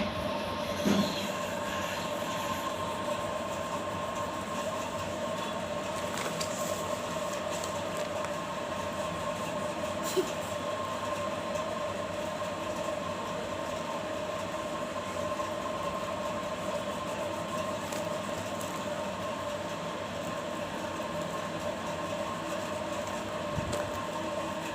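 A steady mechanical hum with two clear steady tones, and a few brief knocks in the first second and once around ten seconds in.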